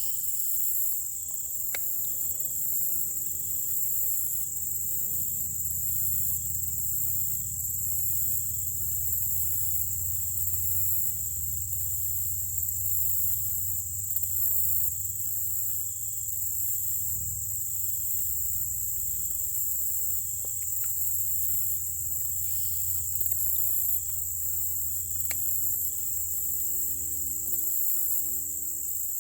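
A chorus of insects buzzing steadily at a high pitch with an even pulsing rhythm, over a low steady rumble.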